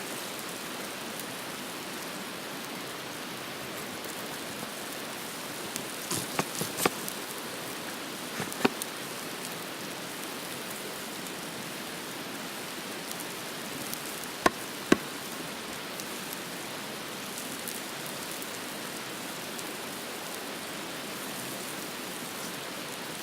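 A steady hiss runs throughout, with a few sharp clicks and pops scattered through it: a cluster about six to nine seconds in and two louder ones near the middle.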